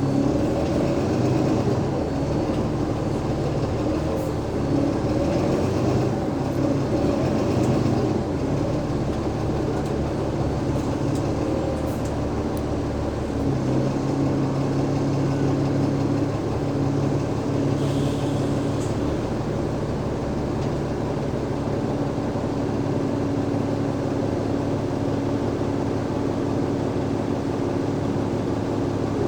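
Alexander Dennis Enviro500 MMC bus's Cummins ISL8.9 diesel engine and ZF Ecolife automatic gearbox running under way, with a steady hum. The pitch wavers up and down for the first several seconds, then settles into a steadier low drone from about halfway in.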